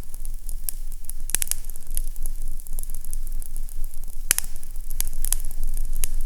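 Fire crackling in a fireplace: scattered sharp pops, a quick cluster about a second in and several more in the second half, over a steady hiss and a low rumble.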